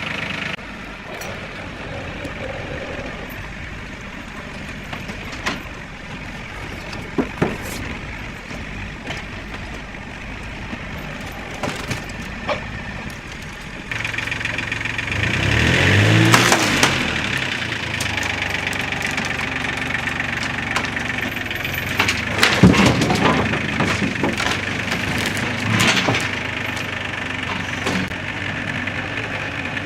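Challenger MT275 tractor's diesel engine running steadily, then revving up hard about halfway through as it pulls a heavy load, and settling back. Several sharp cracks and knocks follow a few seconds later.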